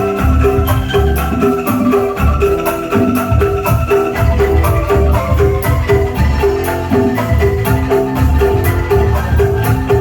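Angklung ensemble playing a rhythmic piece: a repeating melody of short bamboo tones over deep bass notes, with quick high ticks keeping the beat.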